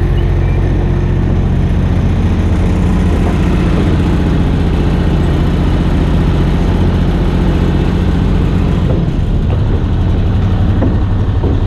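An engine running steadily at idle, with a low, even hum.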